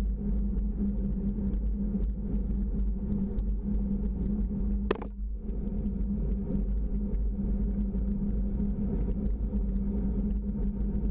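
A steady low rumbling drone with a constant hum, with one sharp click about five seconds in.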